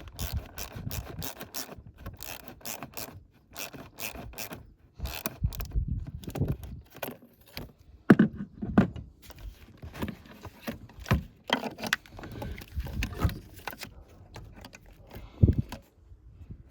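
Hand tools at work on an engine: irregular metallic clicks, knocks and scraping, with a few louder knocks around the middle and one near the end.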